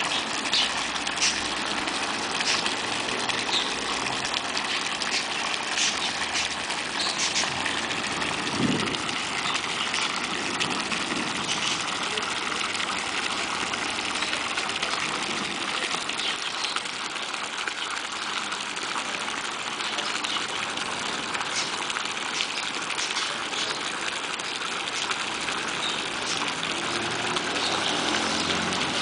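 Steady rush of pool water with a pump running as an automatic pool vacuum works, with a faint steady whine and occasional light clicks.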